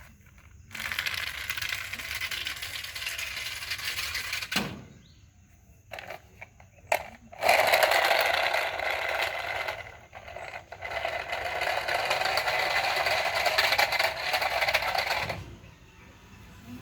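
Toy cars rattling and scraping as they slide down a track, in two long runs of several seconds each with a few sharp clicks between them.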